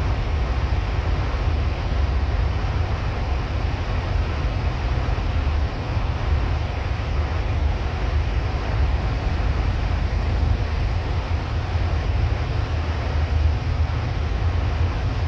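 Coach driving at a steady speed: a constant low engine rumble under an even hiss of tyre and road noise, with no change in pitch.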